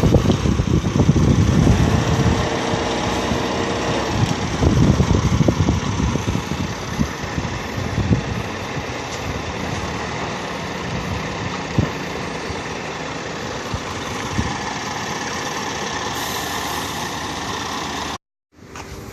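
Scania R440 truck's diesel engine running, heavier and rougher for the first few seconds, then settling to a steady run with a few short knocks. The sound cuts out briefly near the end.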